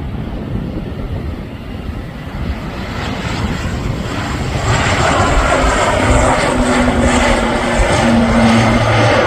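Airliner engines at takeoff power, growing louder from about three seconds in as the aircraft approaches, with wind buffeting the microphone throughout.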